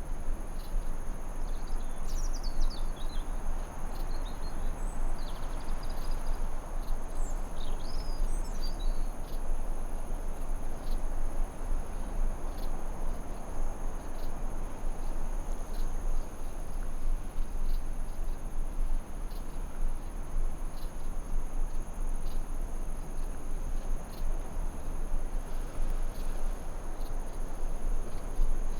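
Forest ambience: a steady high-pitched insect drone over a constant rushing noise, with a few quick bird chirps from about two seconds in to about nine seconds, and again at the very end.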